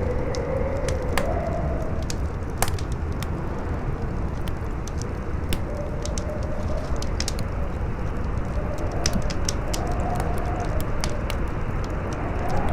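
Campfire crackling with frequent sharp pops, over a steady wind that howls with a wavering, rising and falling tone.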